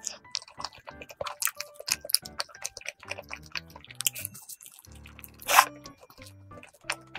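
Close-miked wet chewing and mouth sounds of someone eating a soft cream-filled gold kiwi fruit sandwich, with many small clicks and a louder bite about five and a half seconds in. Background music plays underneath.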